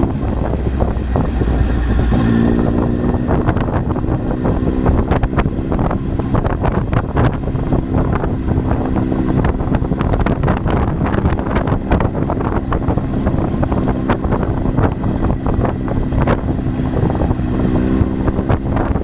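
Triumph Tiger 800's three-cylinder engine running steadily while the motorcycle is ridden, with wind buffeting the camera microphone.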